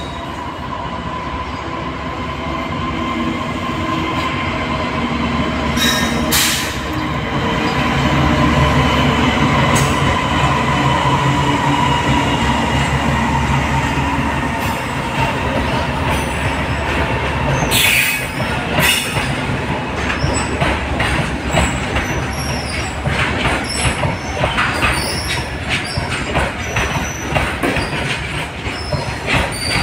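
A freight train running through a station on the near track: the rumble of the locomotive and wheels builds as it approaches, with a couple of sudden sharp noises. The wagons then roll past with rapid clicking of wheels over rail joints and some wheel squeal.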